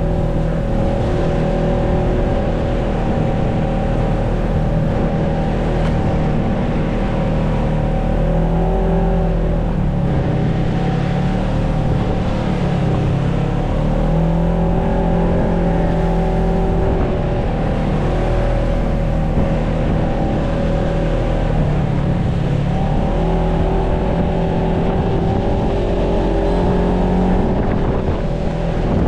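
Off-road vehicle engine running steadily under way on a trail, its pitch rising and falling a little as the throttle changes.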